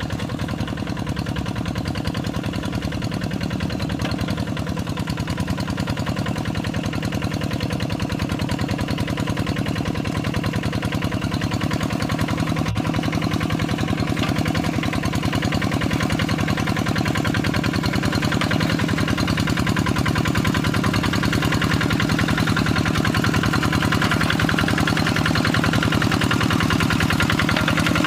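Kubota RD85DI-2S single-cylinder diesel of a Quick G3000 hand tractor running steadily with a rapid, even chugging beat, getting gradually a little louder over the stretch.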